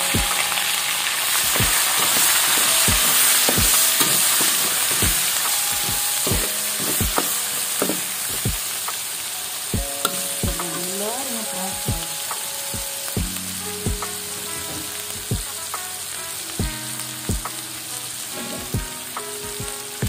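Green chilli paste, lemongrass and tomato sizzling in hot oil in a wok while a metal spatula stirs, scraping and knocking the pan about once or twice a second. The sizzle is strongest early and eases off in the second half.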